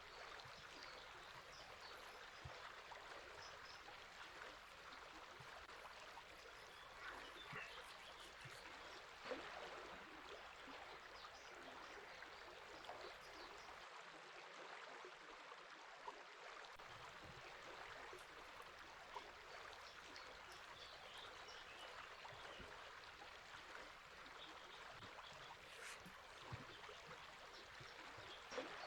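Quiet, steady river water rushing, with scattered faint bird chirps.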